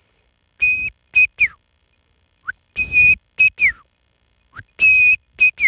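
A man whistling an imitation of the red-wattled lapwing's call as it gives it on seeing a person. There are three high phrases, each a long held note followed by two short ones, the last dropping in pitch, with breath audible under the notes.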